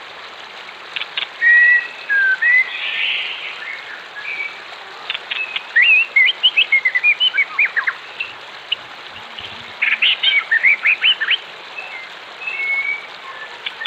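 Wild birds singing and chirping over a steady rush of running water: a few whistled phrases in the first few seconds, then quick runs of sharp chirps in the middle and again a little later.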